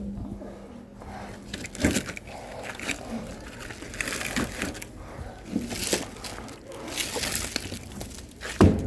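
Firewood being handled: logs scraping and rustling against each other, with a knock about two seconds in and a louder one near the end.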